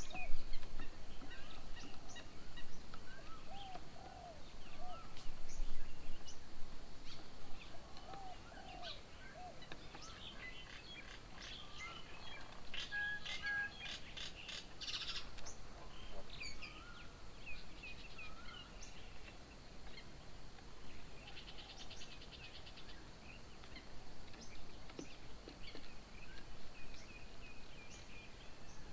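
Several birds calling and chirping at once: short high chirps throughout, a repeated lower whistled call several times in the first half, and a burst of rapid clicking chatter about halfway through.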